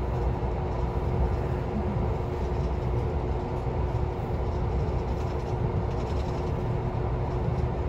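Cabin sound of a moving former JR East 253-series electric train: the steady low rumble of the running gear on the rails, with a constant hum under it.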